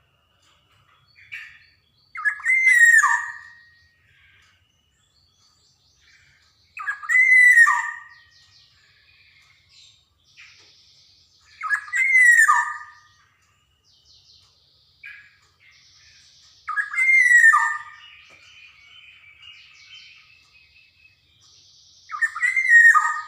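Black-naped oriole calling: five short whistled phrases, each sliding down in pitch, repeated about every five seconds, with faint scratchy chatter in between.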